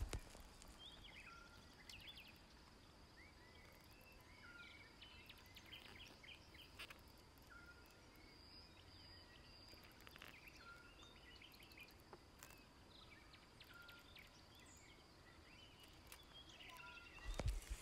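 Faint outdoor ambience: small birds chirping in short repeated calls over a steady high thin tone.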